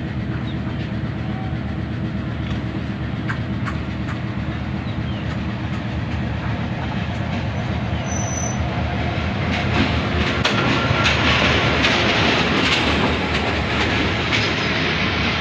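Diesel locomotive approaching on the adjacent track and passing close by. A steady engine drone grows louder about ten seconds in and is joined by the clatter of its wheels over the rail joints as the coaches roll past.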